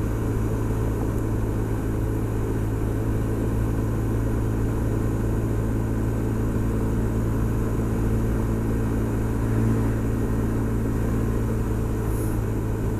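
Honda SH 300i scooter's single-cylinder four-stroke engine idling steadily, with no revving.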